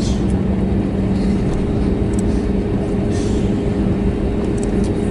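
Airbus A320neo cabin noise while taxiing: its CFM LEAP-1A engines make a steady hum with a low rumble underneath.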